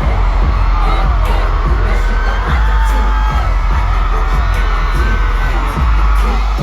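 Loud live concert music with a heavy bass, under a stadium crowd screaming and cheering.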